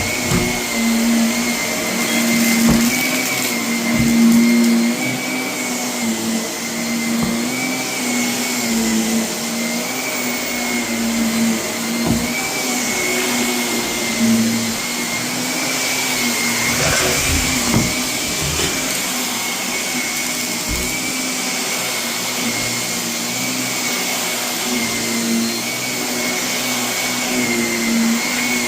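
Vacuum cleaner running steadily over carpet, its motor whine wavering slightly, while loose renovation debris crunches and clicks as it is sucked up.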